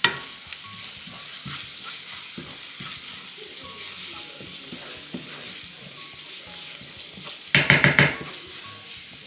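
Spice paste sizzling in hot oil in a pan while it is stirred with a spatula, scraping now and then. A short run of quick knocks comes near the end.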